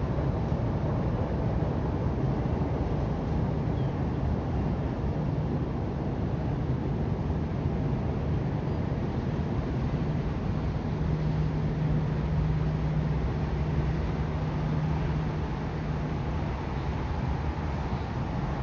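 Steady low rumble with a faint hiss above it and a low droning hum that grows stronger about halfway through.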